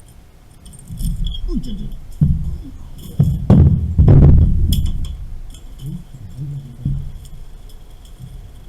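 Irregular metallic clinks and clanks of hand tools and metal pipe fittings being handled during valve replacement work. The loudest knocks come around the middle.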